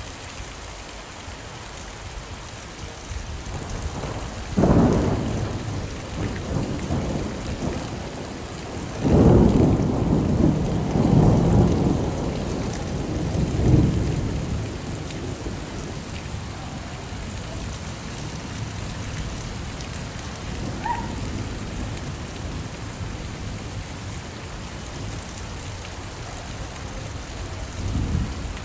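Steady rain falling, with thunder rumbling over it: a sudden peal about five seconds in, a longer rolling rumble from about nine to fourteen seconds, and a faint rumble near the end.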